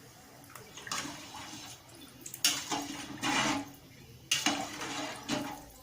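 Water sloshing and splashing in a cooking pot of rice and water, in several short bursts.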